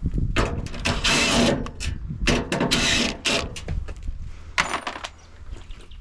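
Washing machine sheet-metal and plastic panels being pulled and handled during teardown: two long scraping, rattling sounds about a second apart, with scattered knocks around them.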